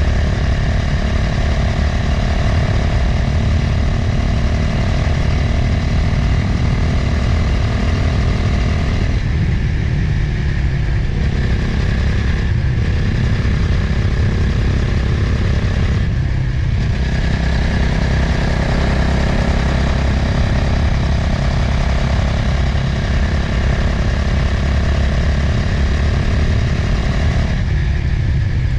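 Motorcycle engine running at road speed with heavy wind rush over the microphone. The engine note eases off briefly a few times along the way.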